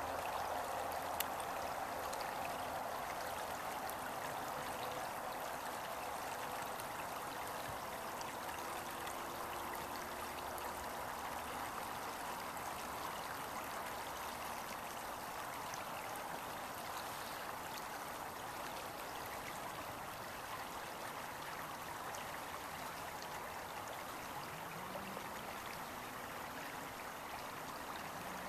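Water flowing steadily in a stream, an even rushing sound.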